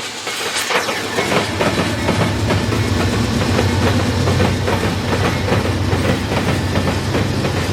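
Railroad cars rolling past, wheels clicking rapidly over rail joints over a steady low rumble.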